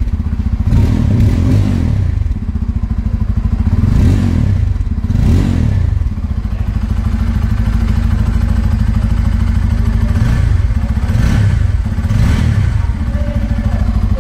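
Bajaj Pulsar N250's 249 cc single-cylinder engine running at idle through its twin-barrel exhaust, with about six short throttle blips that rise and fall back. Its note is very sweet, with no mechanical noise from the engine, which the reviewer takes as the sign of a very refined engine.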